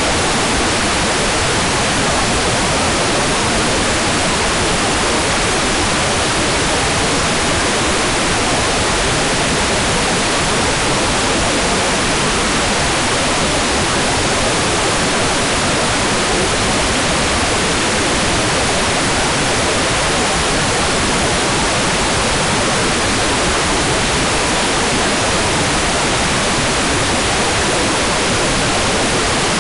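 Hair dryer running steadily: an even, unchanging rush of air with no distinct motor tone.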